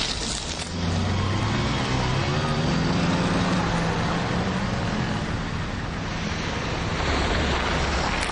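Road traffic: cars driving past on a city street, a low engine hum swelling and fading as vehicles go by.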